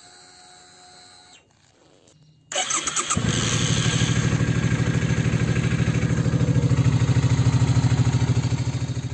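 Motorcycle engine starting about two and a half seconds in, then idling with an even pulsing beat. Before it, a faint steady hum.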